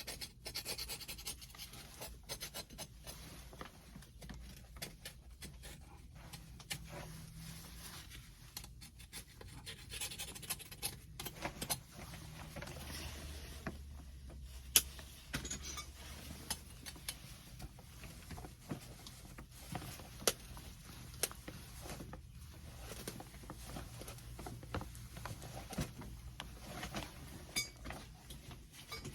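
Light, intermittent scraping and rubbing on copper pipe as corrosion is cleaned off its end with an abrasive, broken by scattered small metallic clicks and clinks from handling the pipe and fitting.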